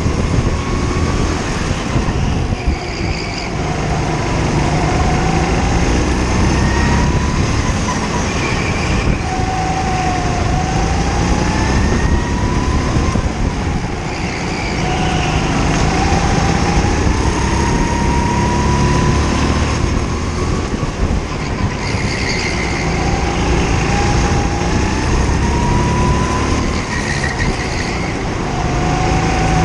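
Kart engine recorded on board, its pitch climbing as the kart accelerates and dropping as the driver lifts off for the corners, again and again, over a heavy low rumble.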